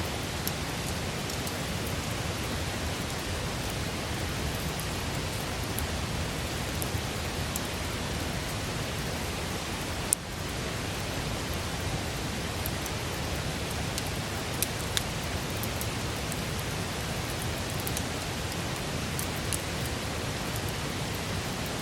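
Wood campfire burning with a steady hiss and scattered sharp crackles and pops, one louder pop about ten seconds in.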